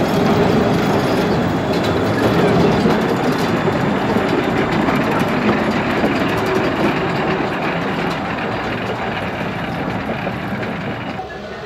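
Electric rack locomotive of the Schynige Platte Railway (He 2/2) running on the cog line: a loud, steady mechanical rumble with a faint steady hum, easing off near the end.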